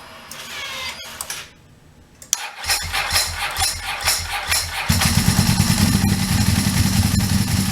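Ducati 1098's L-twin engine cranking and catching about two seconds in, then running, stepping up much louder and fuller about five seconds in. It is being run right after a coolant change to work air bubbles out of the cooling system.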